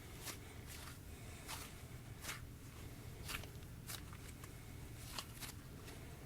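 Hands squishing a blue-green slime mixed with sprinkles, making faint, scattered soft clicks and pops every half second to a second.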